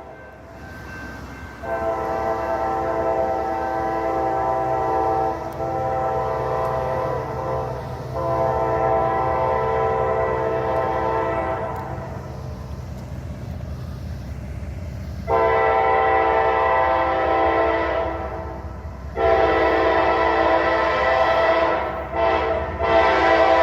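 Freight locomotive's multi-chime air horn sounding several long blasts as the train approaches, over the low rumble of the oncoming train. The blasts grow louder from about two thirds of the way in, with a short break between them.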